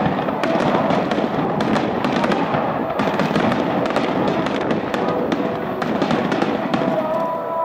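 Aerial firework shells bursting in a dense, continuous grand-finale barrage: many overlapping bangs and crackles with no break between them.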